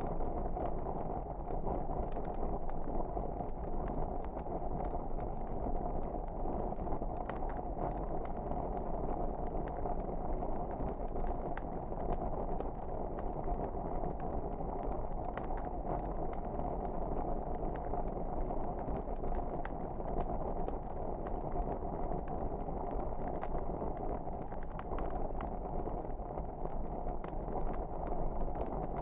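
Wood fire burning in a fireplace: a steady low rush with scattered small crackles and pops.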